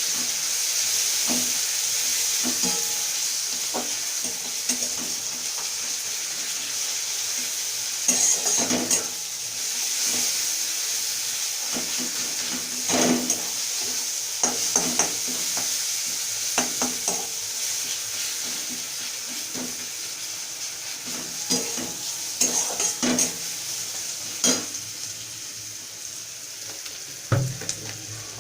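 Onions and ginger-garlic paste frying in oil, sizzling steadily and slowly dying down. A spatula scrapes and knocks against the pan in short bursts as the mixture is stirred.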